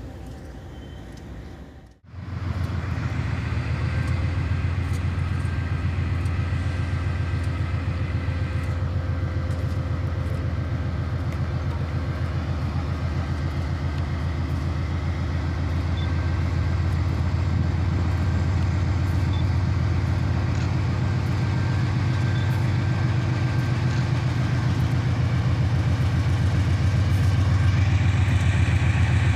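Diesel freight locomotive engine running with a steady, heavy low drone, cutting in suddenly about two seconds in and growing slightly louder near the end.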